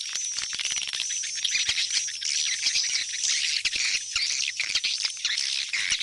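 Swiftlets calling: a dense, unbroken stream of rapid chirps, twitters and clicks from many birds at once. A faint steady low hum runs underneath.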